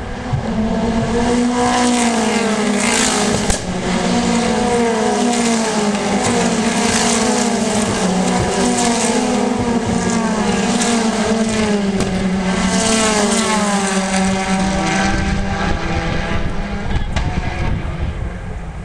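Race car engines running hard at a circuit, their pitch rising and dropping over and over, with a sharp click a few seconds in. The sound cuts off abruptly at the very end.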